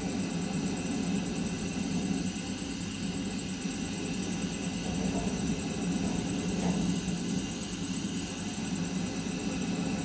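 Steady, even rushing hum of a gas burner flame turned up under the pan, with crickets chirping in a fast, even pulse high above it.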